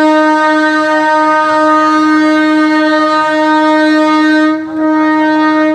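Train horn sounding one long steady blast at a single pitch, with a short dip about four and a half seconds in, then cutting off abruptly near the end.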